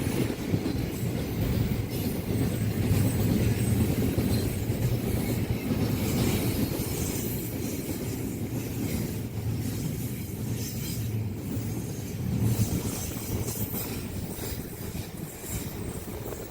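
A long train running past at speed, its wheels rumbling and clattering on the rails, slowly fading over the last few seconds.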